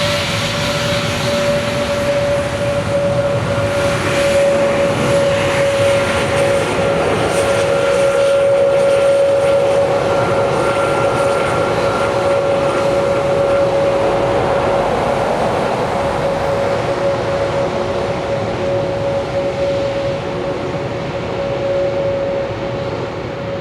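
Jet airliner's engines at takeoff power: a steady whine over a broad roar, swelling to a peak about nine seconds in and then slowly fading.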